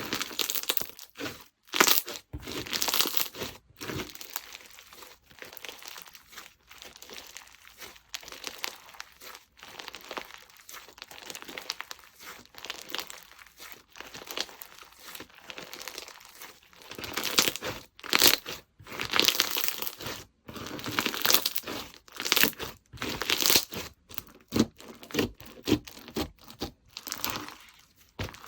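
Slime being handled and squished by hand, making irregular sticky crackling and squelching sounds; quieter for a stretch in the middle, then busier and louder near the end.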